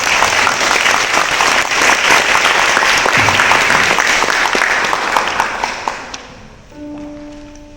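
Audience applauding, a dense patter of clapping that dies away about six seconds in. Near the end a single held note on a musical instrument begins.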